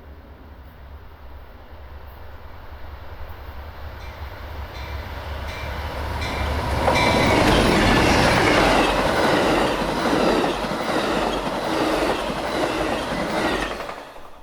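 Amtrak Southwest Chief passenger train approaching and passing close by, its wheels clattering over the rails. It grows steadily louder over the first half, stays loud through the pass, and cuts off just before the end.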